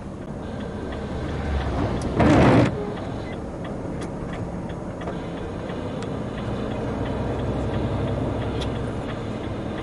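Long-haul truck's engine and road noise running steadily while driving. A short, loud burst of noise lasting about half a second comes about two seconds in.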